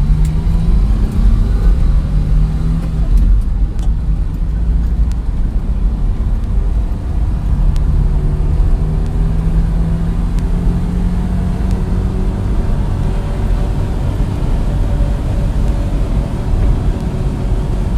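Engine of a 1987 Daihatsu mini truck running under load while driving, over a steady low road rumble. The engine note wavers at first, then settles slightly higher about eight seconds in and holds steady.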